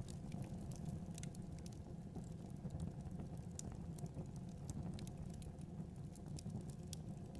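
Wood fire burning in a fireplace: a steady low rumble of flames with frequent small crackles and pops at irregular intervals.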